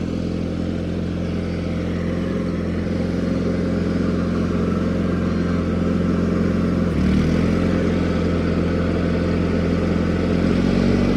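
John Deere 420 garden tractor's engine running steadily, still a little cold. Its note shifts briefly about seven seconds in, and it grows slightly louder toward the end.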